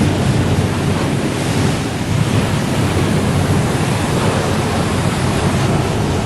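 Car wash ambience: a loud, steady rush of spraying water, heaviest in the low end and without a break.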